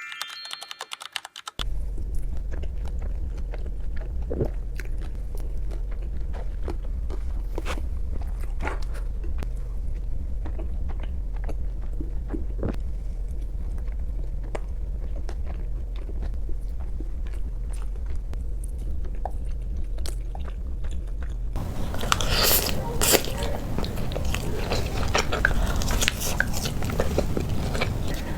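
Close-miked chewing and crunching of french fries, with many sharp bites over a steady low hum. The crunching grows louder and denser about three quarters of the way through.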